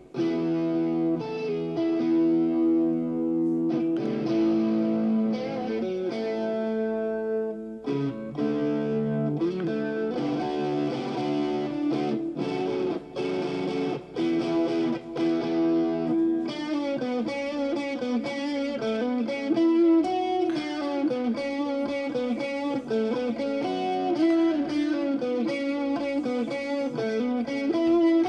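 Recorded song with electric guitar played back through a digital mixing console during a virtual sound check. The music holds sustained chords, then turns denser and brighter a little past halfway.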